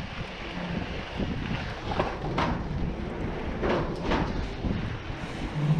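Wind buffeting the microphone of a moving mountain bike, over steady tyre rumble on the trail, with a few short knocks or rattles about two and four seconds in.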